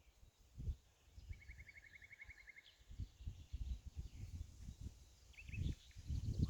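Wind rumbling on the microphone, with a small bird's rapid trill of about a dozen short high notes a little over a second in, and a few brief chirps near the end.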